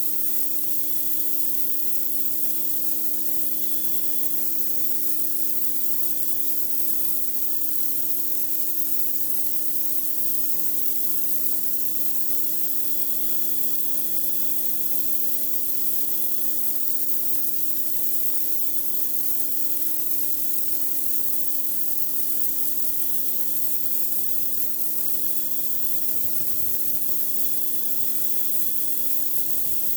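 Pressure washer blasting a high-pressure water jet onto a concrete driveway: a steady, unbroken hiss of spray over the even hum of the washer's motor and pump.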